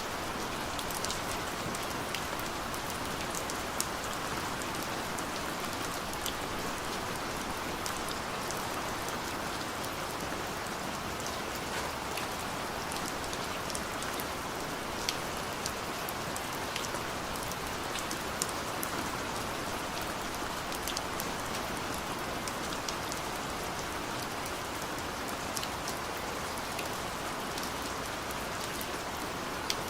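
Heavy downpour: steady rain hiss with individual drops ticking sharply on a surface.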